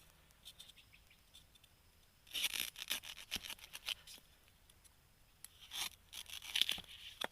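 Dry bamboo leaves and stems crackling and rustling as they are handled, in two scratchy bouts: one about two seconds in that lasts nearly two seconds, and a shorter one near the end, with scattered snaps between.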